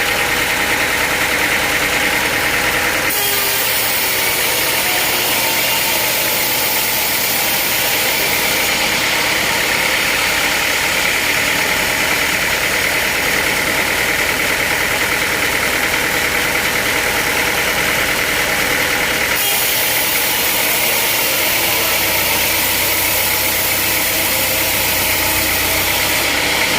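Sawmill machinery running with a loud, steady mechanical noise, its sound changing abruptly a few times.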